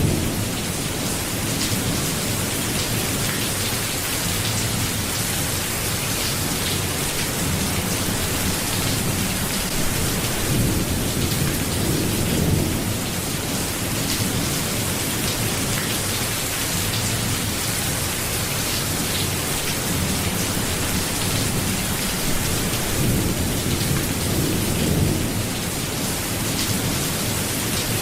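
Steady rain falling, with low thunder rumbles swelling and fading about halfway through and again near the end.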